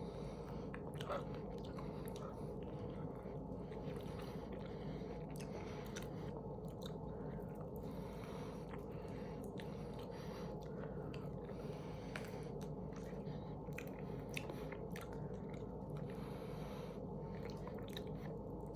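A person chewing and biting into bone-in chicken wings close to the microphone: many short, wet clicks and crunches from the mouth, over a steady low hum.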